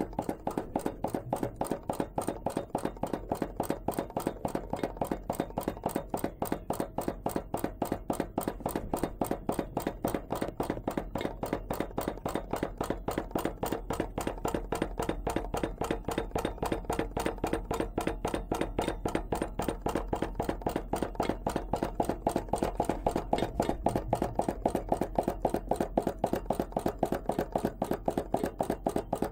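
Home-made hot-air (Stirling) engine built from a converted air pump, running steadily with an even, fast ticking clatter on each revolution, getting a little louder in the last third.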